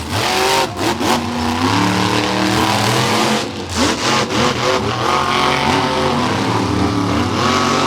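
Monster truck engines revving hard through a race run, their pitch climbing and dropping again and again.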